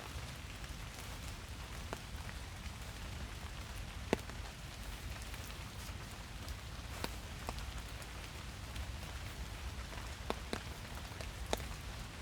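Rain falling steadily, an even hiss, with separate drops landing close by as sharp ticks at irregular moments, the loudest about four seconds in.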